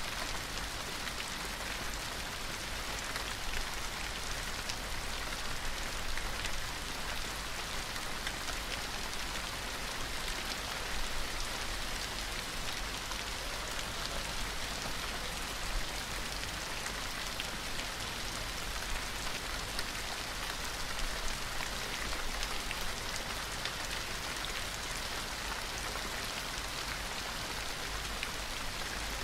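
Steady rain falling, an even hiss of many fine drops with scattered individual drop ticks.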